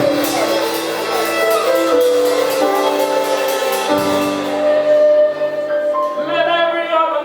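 Live praise band playing sustained chords with a quick cymbal beat that drops out about halfway, then a voice singing a held, wavering note near the end.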